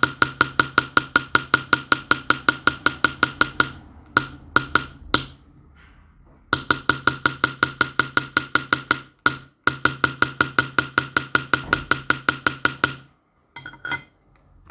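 Small hammer tapping rapidly on metal, about eight even strikes a second with the same short ring each time. The taps come in runs of a few seconds with brief pauses, like a silversmith chasing or engraving silver with hammer and punch.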